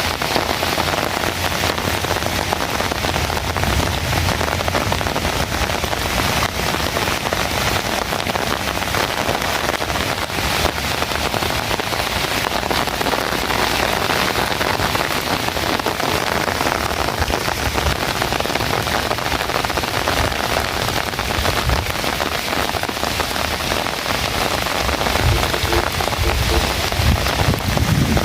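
Steady heavy rain falling, a dense hiss made of countless drop impacts, with some low rumbling coming in near the end.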